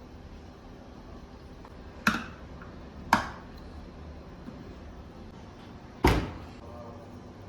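Three sharp knocks of hard objects being handled or set down, the first two a second apart and the third, deeper and heavier, about three seconds later, each ringing briefly.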